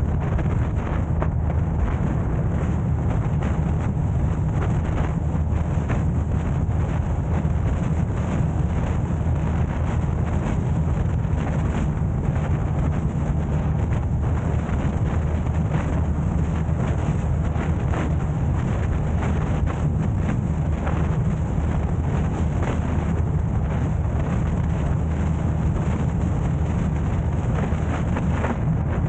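Steady wind and road rumble on the camera's microphone from a car driving, a constant low drone that does not change.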